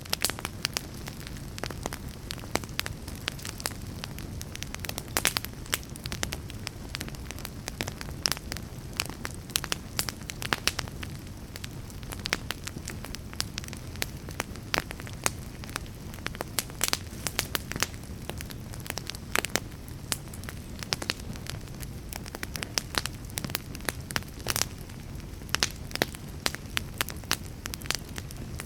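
Fire crackling: a dense run of irregular sharp pops and snaps over a steady low rumble.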